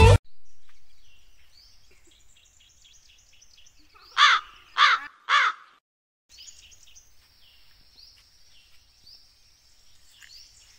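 A crow cawing three times in quick succession, about half a second apart, over faint chirping of small birds.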